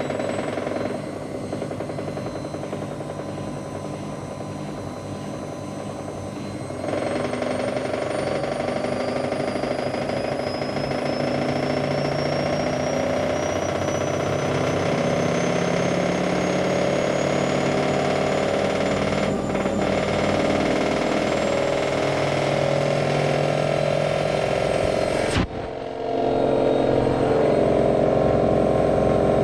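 AEG Lavamat Turbo washer-dryer on its spin cycle: a steady mechanical drone with a whine that slowly rises in pitch as the drum speeds up, and a rattle that the owner puts down to the belt pulley at the back. Near the end it briefly dips, then runs louder.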